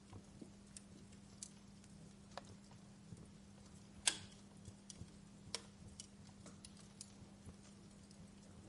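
Wood fire burning in a fireplace, crackling faintly with scattered irregular pops and snaps; the loudest snap comes about four seconds in.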